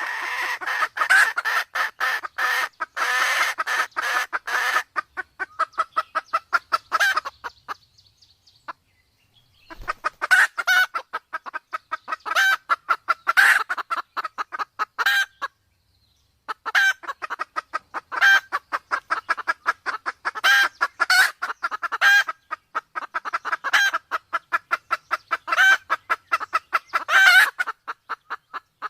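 Red junglefowl hen clucking in long, fast runs of short notes, about six a second, with two brief pauses. This is the call of a hen in breeding condition, used to lure junglefowl.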